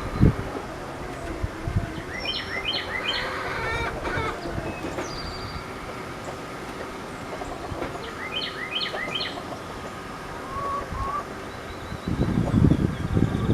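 A songbird calls twice, each time a quick run of four or five rising chirps, over a steady faint hum. Low knocks and rustling come near the end.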